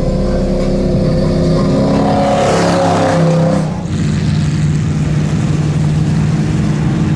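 Mud truck engine running loud under load. Its note surges with a hissing rush about two seconds in, breaks off shortly before the middle, then settles into a steady drone.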